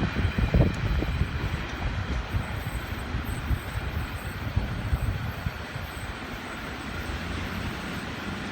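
Limestone freight train rolling past and moving away: a low rumble of wheels on rail with a couple of wheel clunks about half a second in, then fading steadily.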